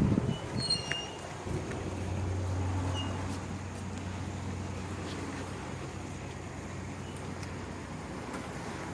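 A motor vehicle's engine makes a steady low hum. It comes in about a second and a half in and eases off slowly.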